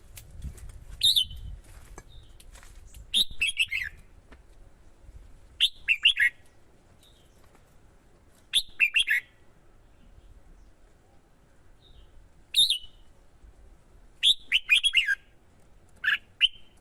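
Red-whiskered bulbul song: about seven short phrases of quick, falling chirps, each a second or less, coming every two to three seconds.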